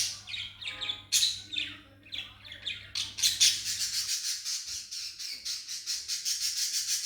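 Shop birds squawking and chirping in short separate calls. From about three seconds in, a fast, steady rattling hiss takes over.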